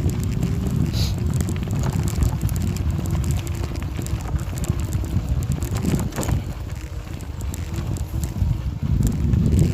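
Wind buffeting the microphone as a heavy, constant low rumble, with a faint steady hum beneath it.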